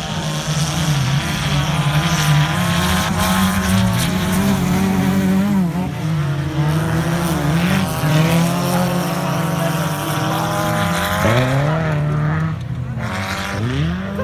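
Engines of battered wreck-race cars revving hard on a dirt track, their pitch climbing and dropping again and again as they accelerate and lift off, with more than one engine heard at once.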